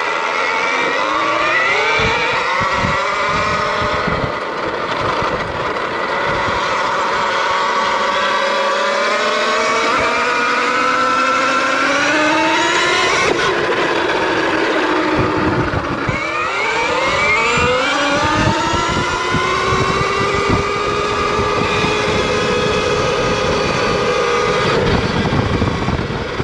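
A 2020 KTM Freeride electric dirt bike being ridden. Its electric motor and drivetrain give a whine that climbs in pitch as the bike speeds up, drops sharply about thirteen seconds in, then climbs again and holds steady. Short low thumps sound underneath.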